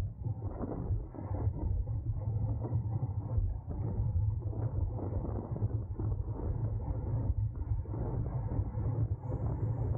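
Steady low rumble of wind buffeting the microphone of a camera carried on a racing bicycle at race speed, mixed with road and tyre noise.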